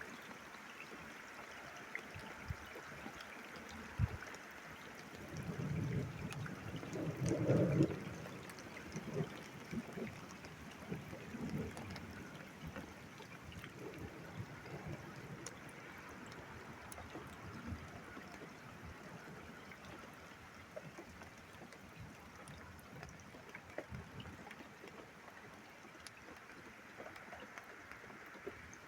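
Steady rain with water trickling and running off, and scattered drip ticks. A short low rumble swells and fades about six to eight seconds in.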